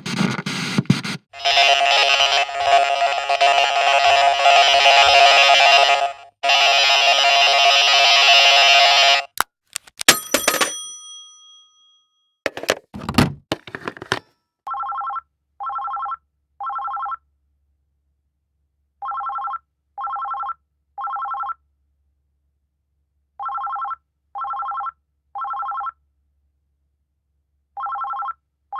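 A run of separate technology sound effects: two long, loud buzzing stretches and a few sharp clicks, then an electronic telephone ringtone sounding short beeps in sets of three, repeating every few seconds.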